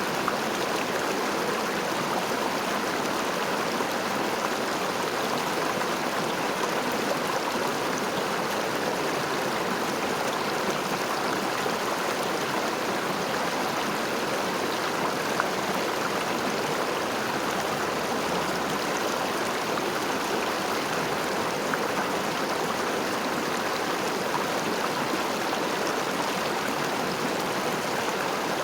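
A river flowing steadily: an even rushing of water with small splashes and trickles.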